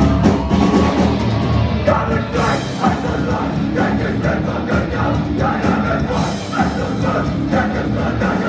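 Hardcore punk band playing loud and live, with a full band driving through a song and vocals coming in about two seconds in.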